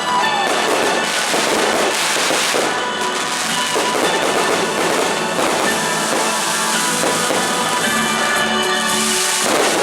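Fireworks popping and crackling densely and without pause, over music playing at the same time, with a heavier swell of crackling near the end.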